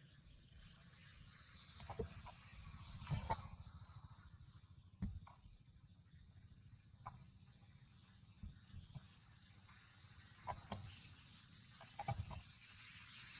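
Scattered short animal calls and clicks, coming at uneven intervals over a low background rumble.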